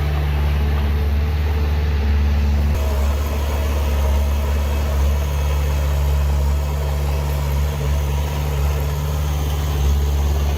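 Heavy diesel engine of earthmoving machinery running steadily, a deep, even drone with no change in revs.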